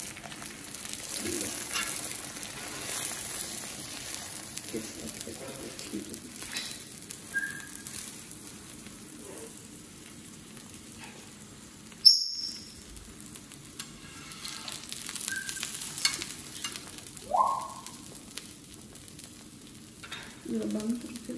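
Ghee sizzling steadily under a cauliflower-stuffed paratha frying on an iron tawa, with occasional scrapes of a metal spatula against the pan. A single sharp knock about halfway through.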